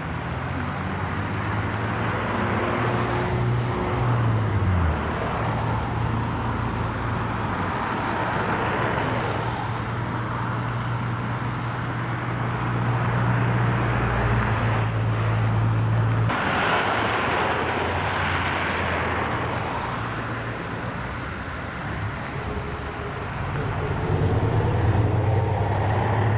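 Road traffic: motor vehicle engines running, with a steady low hum. One engine note falls away about four seconds in. The hum stops abruptly partway through and builds again near the end.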